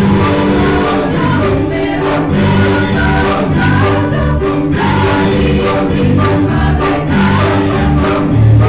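Church choir singing a Christmas hymn in parts, with held low notes sounding underneath.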